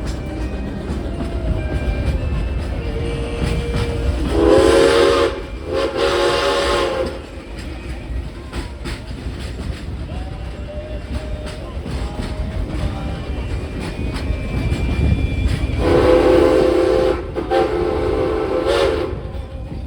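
Steam train running with a steady rumble and clatter of wheels on track, while its whistle sounds twice in pairs of blasts: two blasts about four seconds in, and two more about sixteen seconds in.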